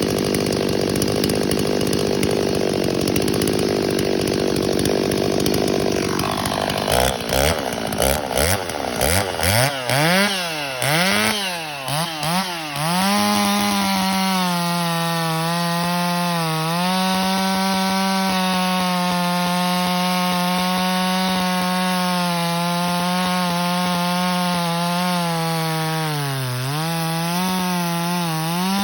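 Ported Stihl 026 two-stroke chainsaw with a 20-inch bar and full-chisel chain, running at full throttle through wood. Around the middle it is blipped up and down several times, then it runs steadily at high revs again with brief dips under load; the engine holds its revs well, the mark of the woods-ported cylinder.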